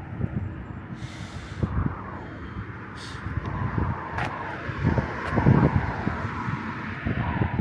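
Road traffic passing on a street, with pitch glides falling as vehicles go by, and wind buffeting the microphone in low, uneven gusts.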